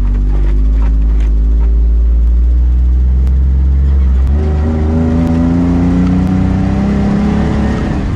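A Jeep driving, its engine running steadily and then climbing in pitch about halfway through as it speeds up. No squeaks or creaks are heard from the suspension, now fixed.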